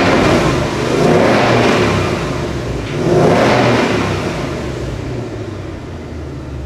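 2018 Ford Mustang GT's 5.0-litre V8 being revved through its active valved exhaust, swelling in blips about a second and about three seconds in, then easing back toward idle.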